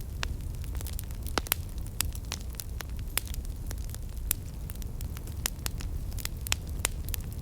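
Campfire (wood fire) burning, with irregular sharp crackles and pops several times a second over a steady low rumble of the flames.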